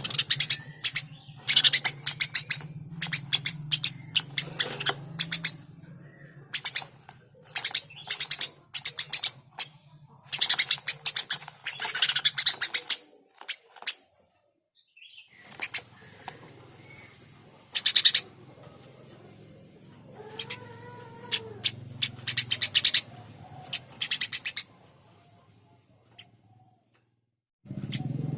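Eurasian tree sparrow chirping in quick runs of sharp, high chirps, breaking off briefly about halfway and again near the end.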